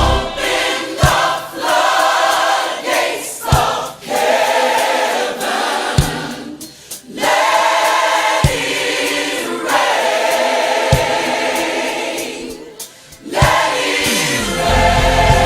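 Gospel choir singing held chords over a stripped-down accompaniment, with a single low bass hit about every two and a half seconds. Near the end the full band, with bass and drums, comes back in.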